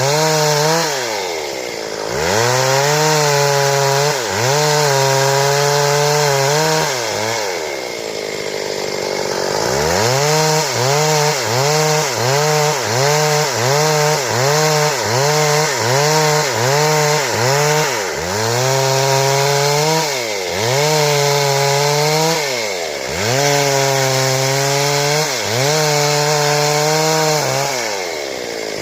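Two-stroke Stihl chainsaw cutting through wood to saw boards, its engine pitch repeatedly sagging under the load of the cut and picking back up. About a third of the way in, the engine drops low for a moment. It then bogs and recovers in a quick rhythm, about every half second, as the bar works through the wood, before settling into longer, slower swings.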